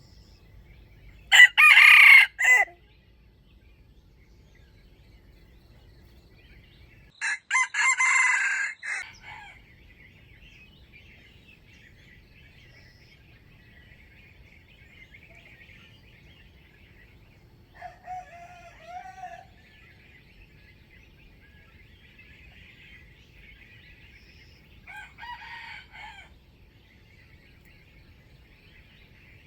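Junglefowl rooster crowing: two loud crows, the first about a second and a half in and the loudest, the second about seven seconds in, then two fainter, shorter calls later on. A faint steady high buzz runs underneath.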